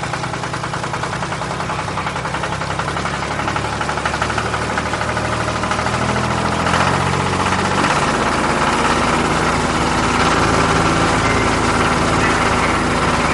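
Tractor engine running steadily with a fast even knocking beat, getting louder about seven seconds in.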